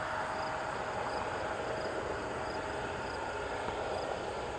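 Crickets chirping faintly and regularly, about twice a second, over a steady outdoor background hum. A faint steady tone in the hum stops a little past halfway.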